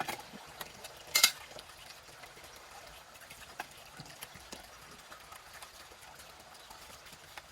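Scattered small clicks and knocks, with one louder clattering burst about a second in.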